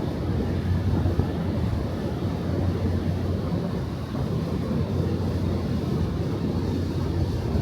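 Steady low rumble of a ferry's engines with a constant low hum, and wind buffeting the microphone.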